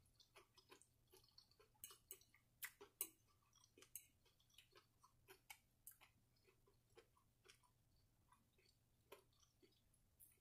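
Faint, close-up chewing of a mouthful of fried catfish and coleslaw with the mouth closed: quick, irregular small clicks, a few louder ones in the first three seconds, softer after.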